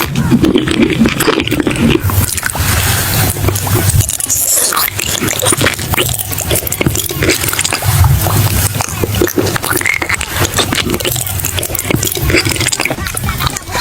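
Close-up chewing: a dense, continuous run of wet clicks and crunches as food is bitten and chewed.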